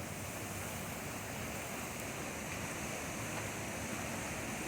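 Rain-swollen creek rushing steadily under a small bridge, a continuous even roar of running water.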